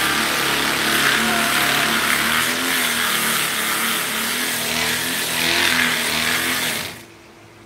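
Electric power tool motor running, its pitch wavering up and down as it works, switched off about seven seconds in.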